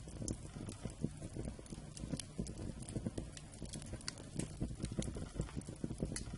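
Wood campfire crackling, with irregular sharp pops and snaps over a low steady rumble of the flames.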